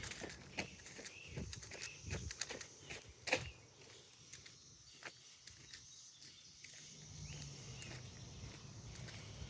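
Footsteps on a trail, a run of steps in the first three seconds or so, then fainter, with a few short bird chirps and a steady high insect hum behind them.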